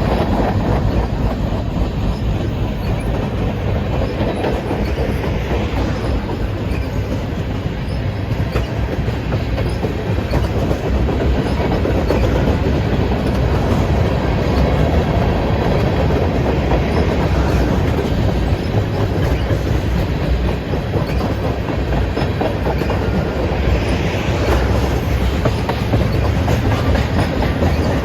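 Freight train rolling steadily past, its cars' wheels clattering over the rail joints in a continuous clickety-clack.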